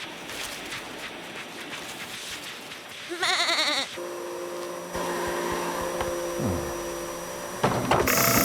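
A cartoon sheep bleating once with a wavering, quavering pitch about three seconds in, followed by a steady held tone for a few seconds.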